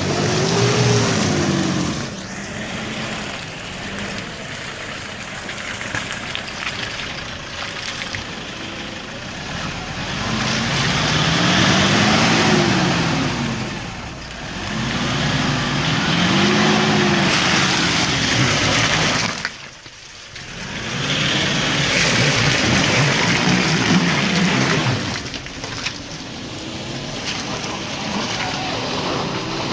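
4WD pickup truck engine revving up and falling back again and again under load, its pitch rising and falling in several swells over a steady rushing noise. The sound drops out briefly about two-thirds of the way through.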